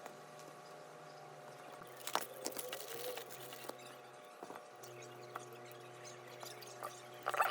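Faint clicks and short scrapes of small tools and parts being handled during a repair on an iPod Touch, over a steady electrical hum. The loudest clicks come about two seconds in and again near the end.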